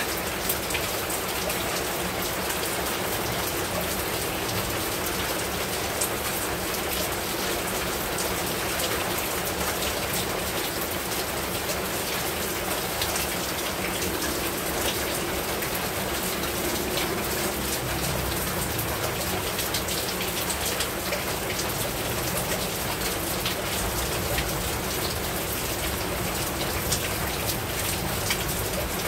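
Steady heavy rain falling on a rooftop: a dense, even hiss with the sharp ticks of single drops striking.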